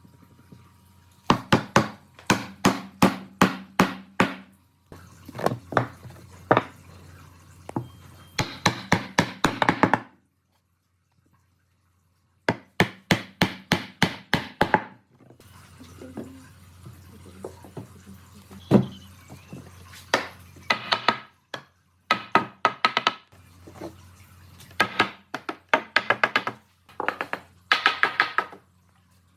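Rapid tool blows on wood, about four a second, in runs of a few seconds broken by short pauses.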